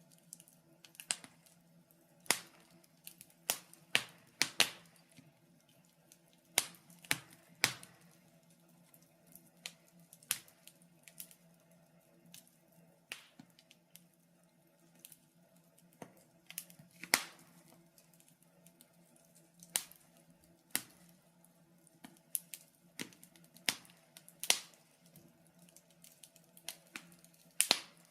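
Wood fire crackling in a fireplace: irregular sharp pops and snaps, roughly one every second or two, some much louder than others, over a faint steady low hum.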